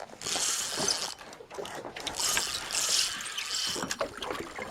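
Fishing reel being wound in, a whirring, ratcheting mechanism in bursts of about a second each.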